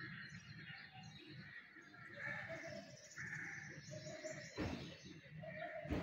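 Birds calling and chirping in short repeated notes over a steady low rumble, with one sharp knock about four and a half seconds in.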